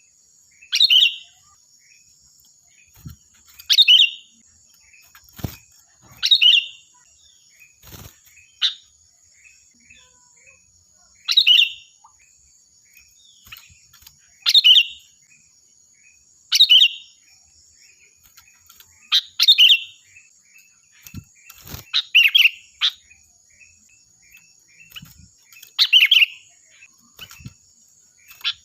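A sooty-headed bulbul (kutilang) singing loud, ringing short phrases, one every two to three seconds, with softer chirps in between. A steady high-pitched tone runs behind the song, and there are a few faint knocks.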